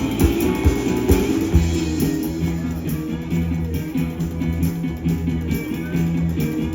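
Live blues-rock band playing an instrumental passage: electric guitar over a steady bass line and drums.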